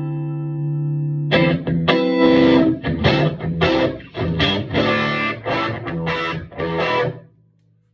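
Electric guitar played through a Vintage Sound Amp on its plexi channel with the tone control cranked: a held chord rings until about a second and a half in, then about a dozen strummed chords follow and stop shortly before the end.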